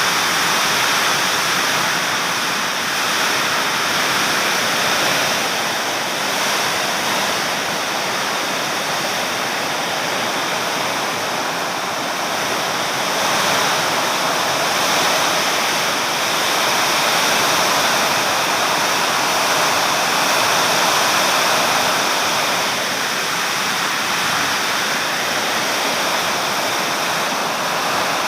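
Heavy rain and wind of a summer storm: a steady, loud rushing that swells and eases slowly.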